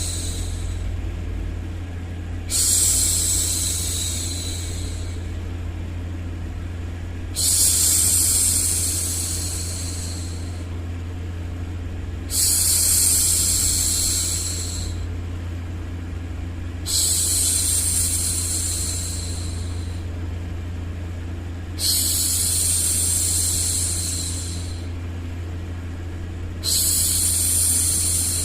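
A woman shushing, a long 'shhh' repeated about every five seconds, each one starting sharply and trailing off over about two seconds, over a steady low hum.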